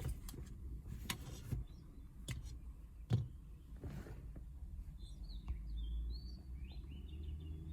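Birds chirping in the background, with a run of short chirps about five to seven seconds in, over a low rumble and a few scattered clicks and knocks from handling.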